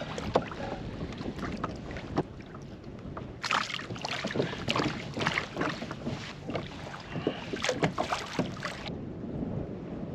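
Water sloshing and splashing around a kayak hull, with wind on the microphone. A busier run of splashes and knocks comes from about three and a half seconds in until about nine seconds.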